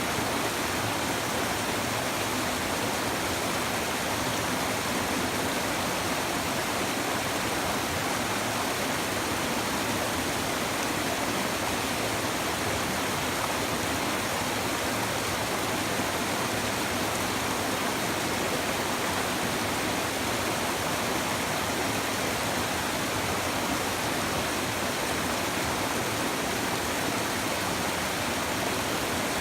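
River stream babbling: a steady, even rush of flowing water over rocks.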